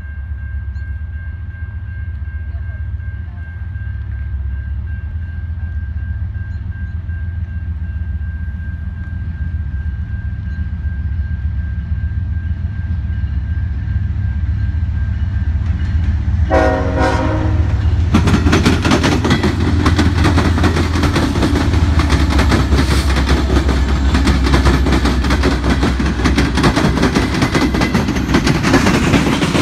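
Norfolk Southern diesel freight locomotives approaching a grade crossing, a low engine rumble building under a crossing bell's steady ringing. About 16 seconds in the lead locomotive sounds a short horn blast, and then the locomotives pass close by, loud with engine and wheel-on-rail noise.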